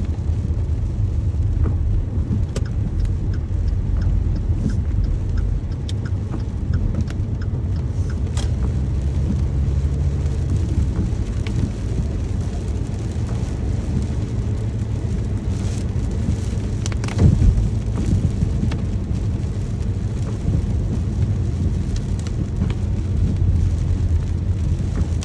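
Steady rain with a heavy low rumble underneath and scattered drops tapping. A louder sharp hit comes about seventeen seconds in.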